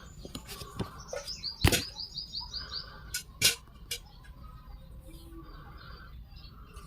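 A small bird chirping, with a quick run of about eight repeated high notes a second or so in and scattered shorter calls. Several sharp clicks and taps sound over it, the loudest about a second and a half in and again at about three and a half seconds.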